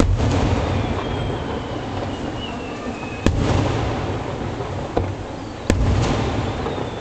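Aerial fireworks shells bursting: a sharp bang right at the start, another about three seconds in and a third near six seconds, each followed by a low rolling rumble, with a fainter crack about five seconds in.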